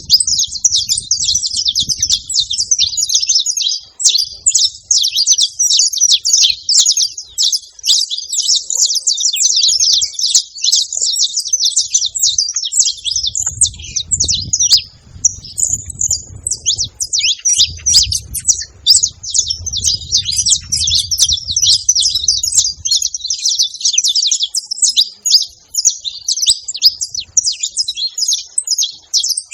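Saffron finch singing: a dense, unbroken run of fast high chirps and trills, with a low rumble underneath for several seconds in the middle.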